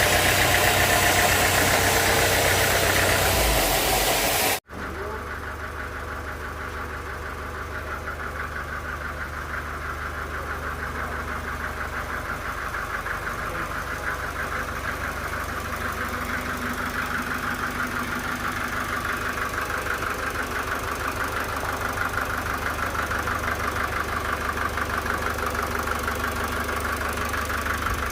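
Sawmill machinery running. For the first few seconds it is loud and hissy, then it breaks off abruptly and gives way to a quieter, steady engine-like hum with a fast, even rattle that slowly grows louder.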